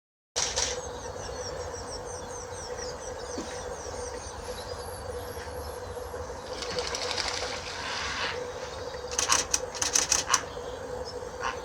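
Small birds singing and calling: a fast run of short descending whistled notes, then thinner higher notes, and a burst of sharp chattering calls near the end, over a faint steady hum. The sound cuts in abruptly just after the start.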